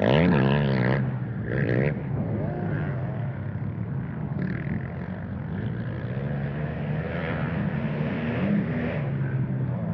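Motocross dirt bike engine running under riding throttle, its pitch rising and falling as the throttle changes, with a rushing noise over it.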